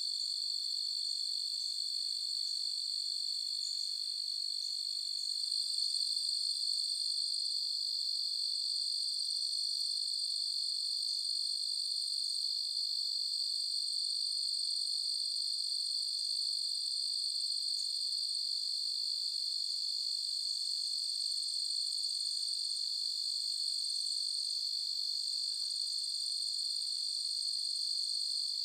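Chorus of crickets trilling without a break, a steady high-pitched tone that grows slightly louder about five seconds in.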